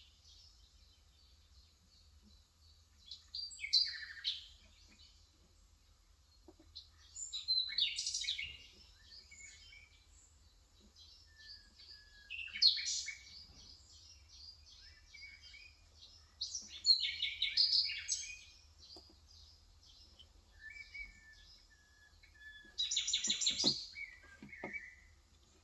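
Small birds chirping and twittering in short bursts every four or five seconds, each burst a quick run of high notes.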